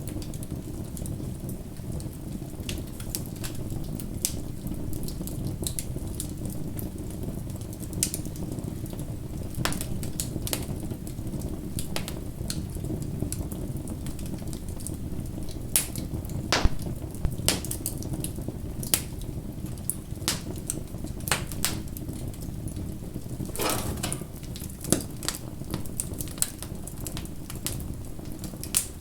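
Campfire burning: a steady low rush of flames with irregular sharp crackles and pops of burning wood, and a short hiss about three-quarters of the way through.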